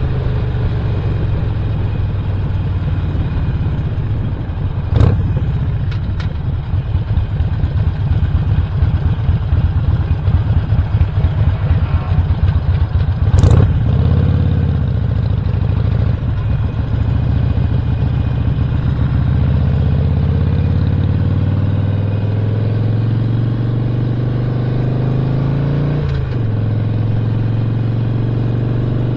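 Stage 1 tuned V-twin engine of a 2017 Harley-Davidson Roadster running under way, its note rising and falling with speed and louder for a stretch through the middle. Sharp clicks about five seconds in and a louder sharp knock near the middle, and a brief break in the engine note about three seconds before the end.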